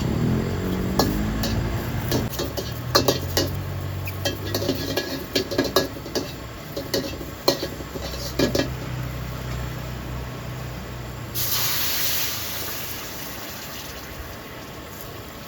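Street-stall cooking: metal utensils clanking repeatedly against cookware, then a sharp burst of hissing sizzle about eleven seconds in, with a low motor hum underneath.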